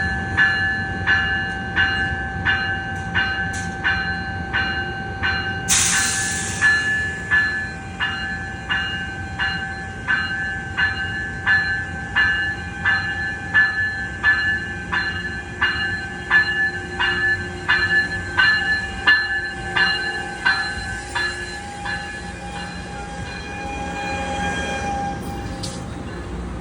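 Railroad crossing bell ringing at nearly two strikes a second over the low rumble of a train, stopping about 22 seconds in. A brief loud hiss about six seconds in.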